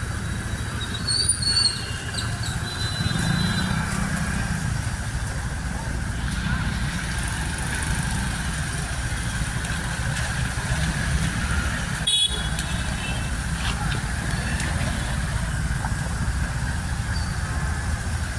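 Road traffic running steadily, with vehicle horns honking briefly about a second in and again around twelve seconds, and a sharp click just before the second honk.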